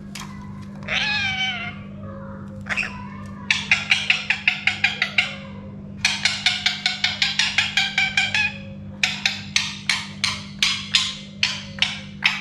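Indian ringneck parakeet calling: one drawn-out call, then long runs of rapid sharp chattering notes at about six a second, slowing to spaced single notes near the end. A steady low hum runs underneath.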